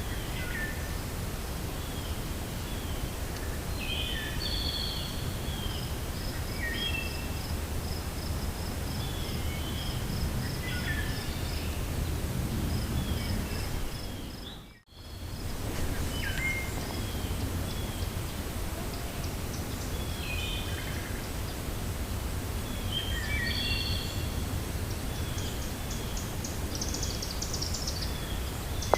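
Wind blowing steadily through a forest while small birds chirp and call on and off, with a quick run of repeated high notes in the first half. The whole sound fades out and straight back in about halfway through.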